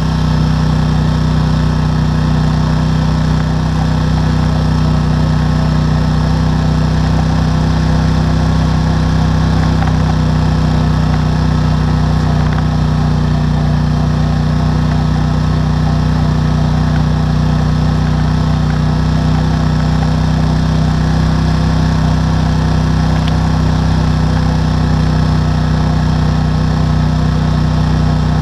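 ATV engine running close to the microphone, its pitch rising as the throttle comes up at the start and then holding steady.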